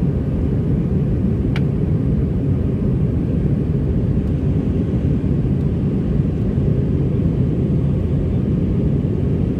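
Steady low rumble of an Airbus A320-211's CFM56 engines and airflow, heard inside the passenger cabin as the airliner climbs out after takeoff.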